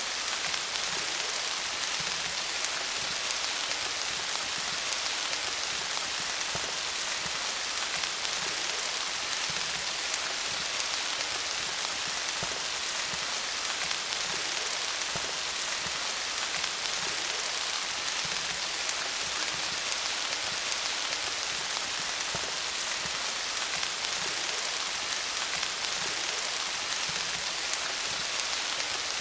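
Steady rain falling on leaves, an even patter of many small drops.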